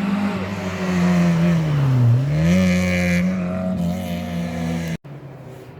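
Rally car engine running hard, its revs falling about two seconds in and then rising again. The sound cuts off abruptly near the end.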